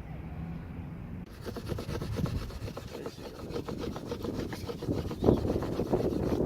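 Bamboo fire saw: a piece of bamboo sawn rapidly back and forth across a notched bamboo section, a fast dry rasping that starts about a second in and grows louder near the end. The friction is heating the bamboo to make it char and smoke for lighting tinder.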